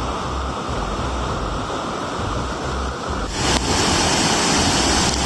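Rushing water of a waterfall and its rapids, a steady roar that turns louder and hissier about three seconds in.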